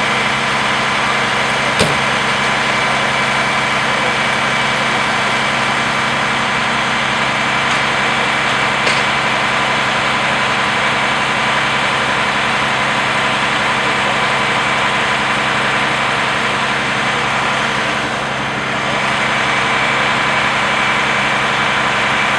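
Large vehicle engine, such as a fire truck's, idling steadily, with a sharp click about two seconds in and a brief dip in loudness near the end.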